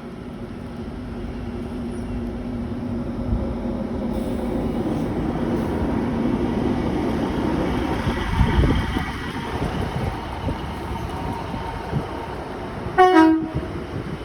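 A passenger train running through a station, its noise and engine hum growing louder over several seconds, then a short horn toot about a second before the end.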